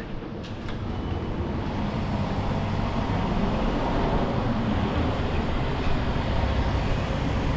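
A low, steady car engine and traffic rumble that grows louder over the first couple of seconds, then holds.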